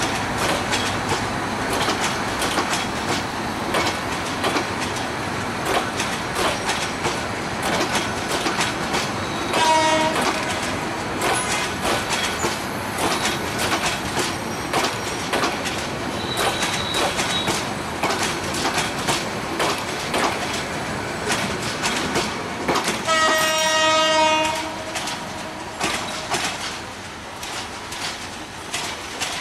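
Bangladesh Railway passenger train rolling past, its wheels clicking steadily over the rail joints. A short horn blast sounds about ten seconds in and a longer one about twenty-three seconds in, and the train noise fades near the end.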